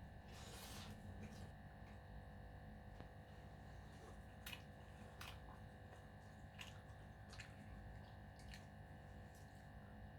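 Faint eating sounds: a brief rustle about half a second in, then scattered soft chewing and mouth clicks, over a steady low hum.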